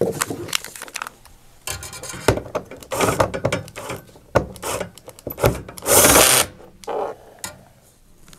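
A 3/8-inch nut driver threading in and tightening a bolt on a metal bracket: irregular metal clicks and scrapes, a rasping stretch about two seconds in, and a louder noisy burst about six seconds in.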